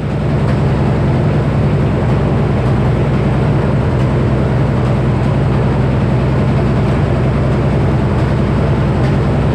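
Minneapolis Moline HEB 605-cubic-inch six-cylinder engine, the sawmill's power plant, running steadily at a constant low speed.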